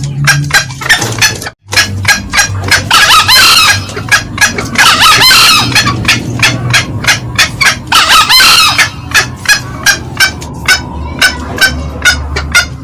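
Green junglefowl calls: a steady run of short, sharp cackling notes, about three a second, broken by three longer, harsh crows. The sound drops out briefly once near the start.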